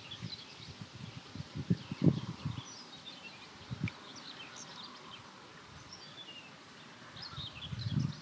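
Small birds chirping and singing, many short high calls scattered throughout. Dull low thuds come in the first few seconds and again near the end.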